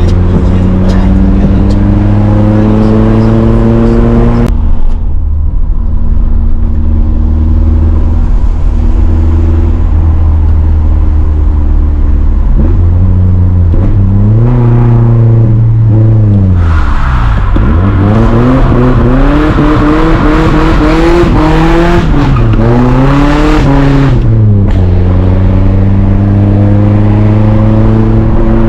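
Nissan 240SX's 2.4-litre four-cylinder engine heard from inside the car, pulling with rising revs, then dropping off about four seconds in and holding steady. Through the middle the revs swing rapidly up and down several times while a rushing hiss rises, and near the end the engine settles back into a steady climb.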